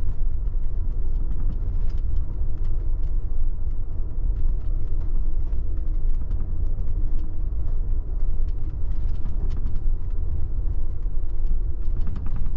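Amtrak Superliner sleeping car rolling along the track at speed, heard from inside: a loud, steady low rumble with faint scattered clicks and rattles.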